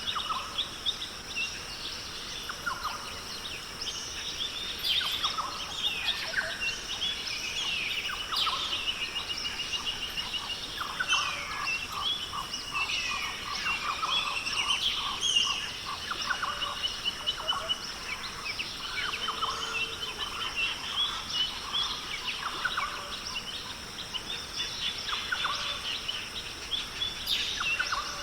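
A dense chorus of many birds calling, with repeated chirps, quick trills and gliding whistles, over a steady high-pitched drone.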